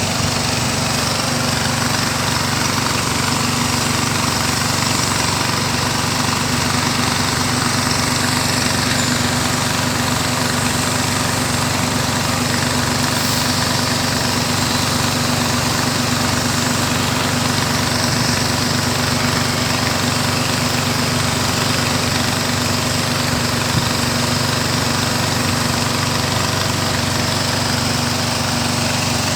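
Small boat engine running steadily at a constant speed, with an even hum and no change in pitch.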